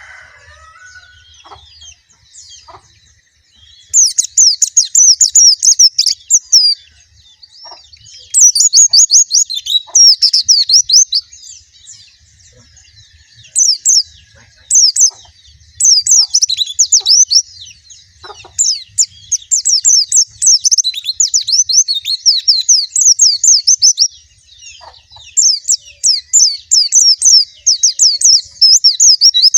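A white-eye (pleci) singing: fast, high-pitched twittering song phrases in repeated bursts. After a few quiet seconds at the start, the song becomes nearly continuous for the second half.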